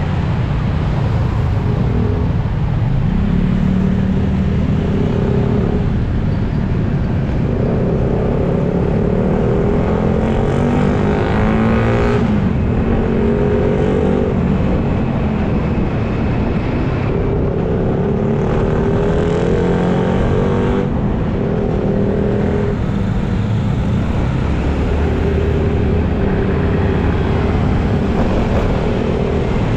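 Carburetted Honda BeAT scooter's small single-cylinder engine running under way, its pitch rising and falling several times with the throttle, over steady wind and road noise.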